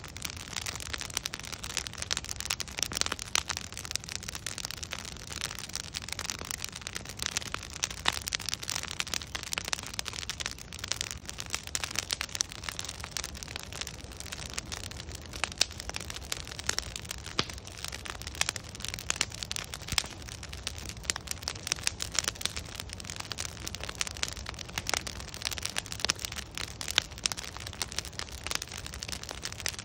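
Log bonfire crackling steadily, with dense, irregular sharp pops and snaps over a steady low rumble.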